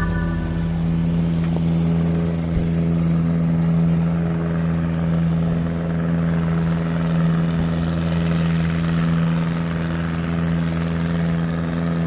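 An engine running steadily at a constant pitch, a continuous drone with a rushing noise over it.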